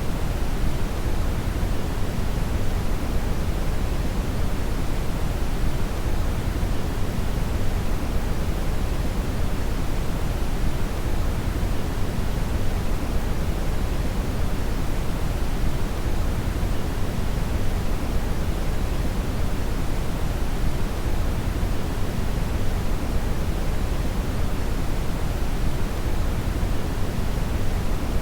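Brown (red) noise: a steady, unchanging hiss-like rumble weighted heavily toward the low end.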